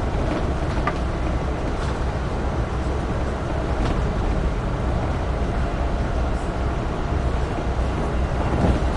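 Amtrak Northeast Regional train running at speed: a steady rumble of wheels on rail, with a few faint clicks.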